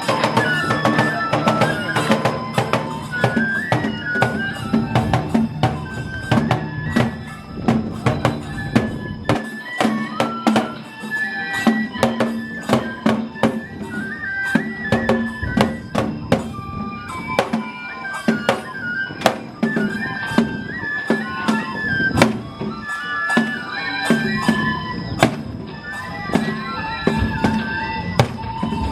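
Matsue dō-gyōretsu festival music: a bamboo-flute melody over a steady rhythm of big dō drums being beaten.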